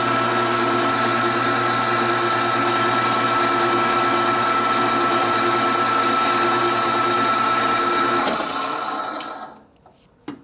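Metal-cutting bandsaw running steadily through a metal bar. It shuts off about eight seconds in and winds down over a second, the sign that the cut is finished. A single sharp click follows near the end.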